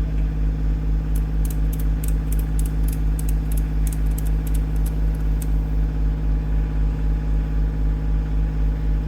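Tractor engine running steadily, with a regular low pulse. A quick run of light, sharp clicks sounds over it for a few seconds starting about a second in.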